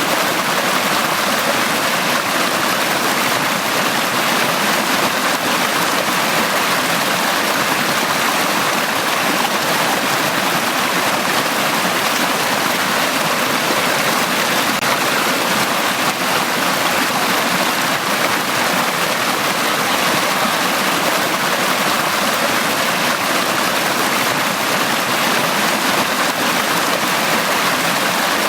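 A mountain valley stream flowing steadily, an even rushing and splashing of water over rocks that does not change.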